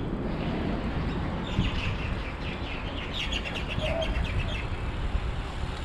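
A bird chirping in a rapid run of short high calls through the middle, over a steady low rumble.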